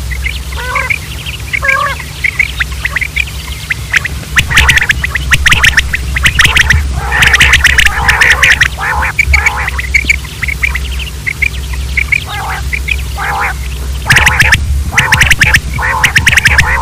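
Many quails calling at once: a dense jumble of short, harsh chirps and squawks, thickest in the middle and near the end, over a steady low hum.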